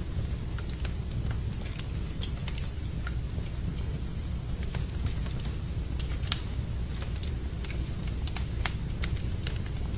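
Wood fire crackling in a fireplace: irregular sharp pops and snaps over a steady low rumble of the burning fire, with one louder pop a little past the middle.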